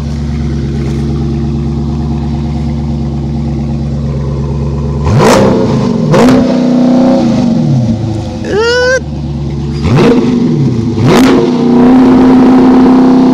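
2018 Dodge Challenger engine on a cold start in freezing weather, idling steadily, then blipped up four times in quick rises and falls. There is a brief rising squeal between the second and third blip, and the engine is held at raised revs near the end.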